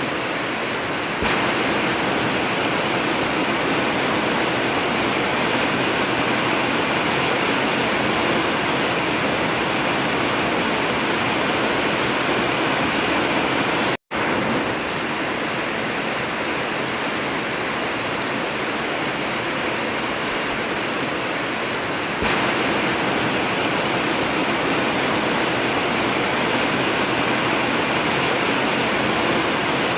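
Heavy rain pouring steadily onto an old tin roof, an even hiss. It steps up a little louder about a second in and again about two-thirds of the way through, and cuts out to silence for a split second about halfway.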